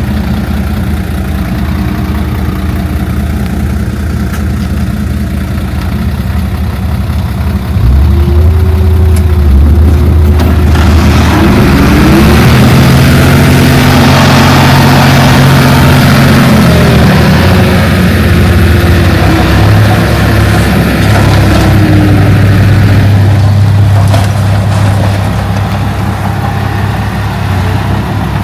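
Diesel engine of heavy earthmoving equipment running steadily, then revving up under load about eight seconds in, its pitch rising and falling for several seconds. A rushing, hissing noise rides over it from about eleven to twenty-three seconds before the engine settles back to a steady lower run.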